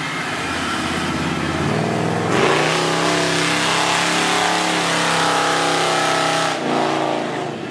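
Car engine revved up about two seconds in, held steady at high revs for about four seconds, then let back down, with another quick rev right at the end.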